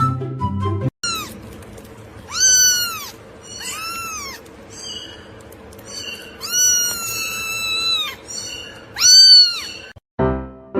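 A domestic cat meowing repeatedly: four loud, drawn-out meows rising and falling in pitch, the longest near the middle, with a few short, fainter calls between them.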